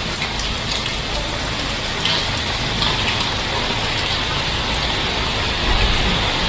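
Heavy rain falling steadily, with scattered sharp drops and a low rumble underneath.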